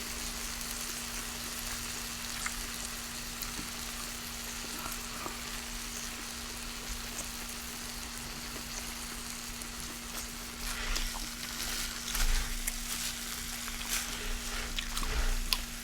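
Close-miked eating sounds: soft crisp chewing clicks that come in clusters from about ten seconds in. They sit over a steady hiss and a low hum.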